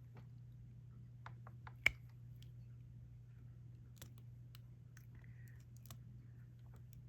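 Scattered small clicks and taps of diamond painting work, a drill pen picking up resin drills and pressing them onto the adhesive canvas, with one sharper click about two seconds in. A steady low hum runs underneath.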